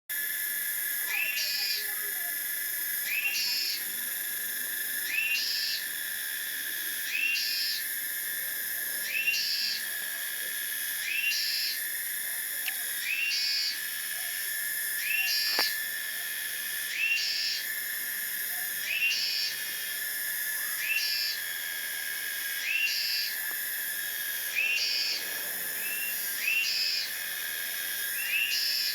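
Cicadas singing: a steady high-pitched drone, with a call repeating about every two seconds, each an upward-sweeping note followed by a short, higher buzz. There is one sharp click about halfway through.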